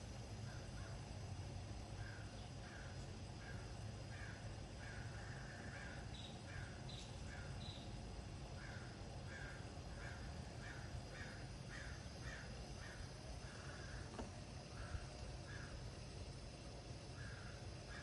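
A bird calling over and over in short calls, about two a second, with a few higher notes in the middle; the calls are faint over a steady low rumble.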